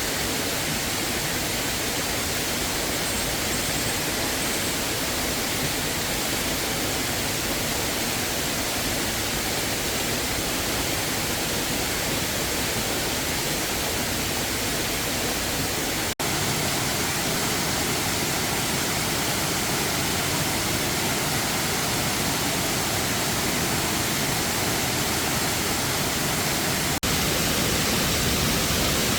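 Steady rushing water of a waterfall, an even wash of noise that dips for an instant twice, about halfway through and near the end.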